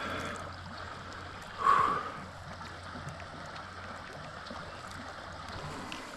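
Creek water running steadily, with a brief louder sound about two seconds in.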